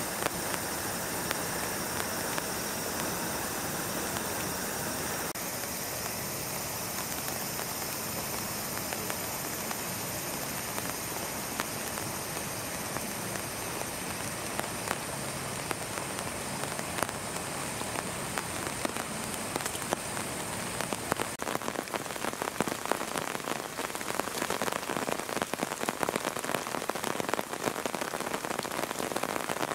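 Heavy rain falling steadily, pattering on surfaces. The patter grows denser and louder about two-thirds of the way through.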